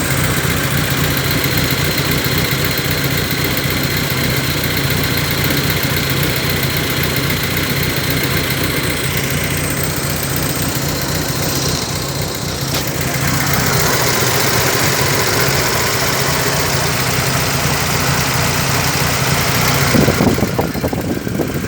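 A BMW engine idling steadily, with a brief louder moment near the end.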